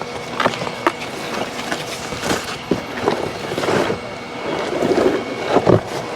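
Clatter of handling and assembling a small fire pit: irregular knocks, clinks and scrapes. A faint steady hum runs underneath.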